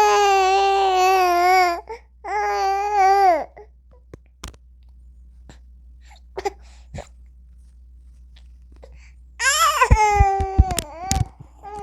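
Newborn baby crying in long, drawn-out wails: two near the start, then a pause with a few small clicks, then another wail near the end that rises and then settles.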